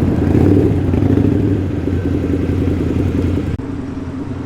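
A muscle car's engine rumbling as it drives slowly past, loud at first, then dropping suddenly about three and a half seconds in and fading.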